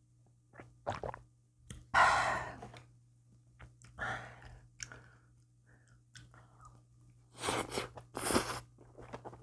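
Close-miked mouth sounds of a person eating japchae glass noodles: irregular chewing with a few louder, noisier bursts, about two seconds in and again near the end.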